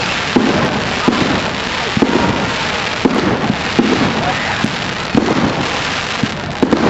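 Fireworks display: a dense crackle of fireworks, with a sharp bang or thump about once a second.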